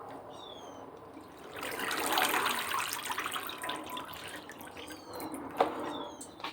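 Water splashing and draining off soaked shredded green papaya into a drainer. It starts about a second and a half in, is loudest for a second or two, then trails off. A single sharp knock comes near the end.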